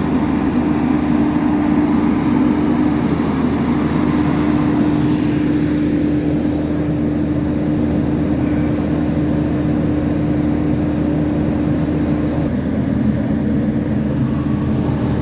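Diesel engine of a boom truck running steadily with its power takeoff engaged to drive the hydraulics, with a steady hum over the engine that stops near the end.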